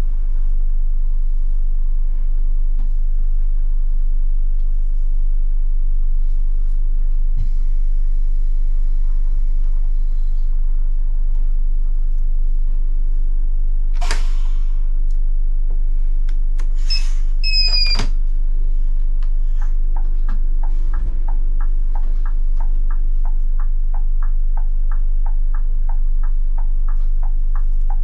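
Scania K250IB bus's diesel engine running with a steady low rumble heard from the cab. About halfway there is one sharp noise, soon followed by a brief high two-tone chime. The turn-signal relay then starts ticking evenly, a few clicks a second.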